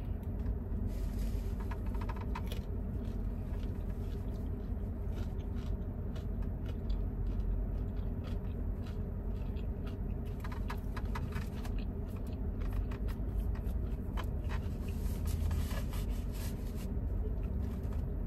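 Someone eating fried shrimp: scattered small clicks and crackles of chewing and handling the food, over a steady low hum.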